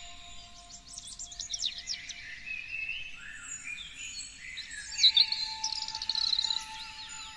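Several songbirds singing over one another: quick chirped phrases and rapid trills, with the loudest trill about five seconds in.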